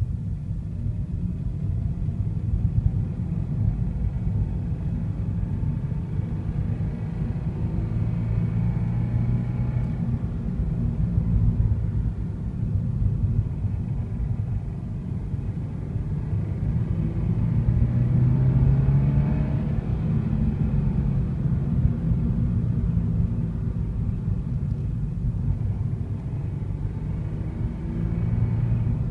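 A low engine rumble running steadily, swelling and easing slowly a couple of times, with a faint hum.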